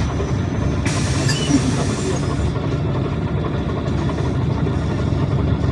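PAZ Citymax 9 city bus heard from inside the passenger cabin, its engine running with a steady low rumble. A brief hiss comes in about a second in.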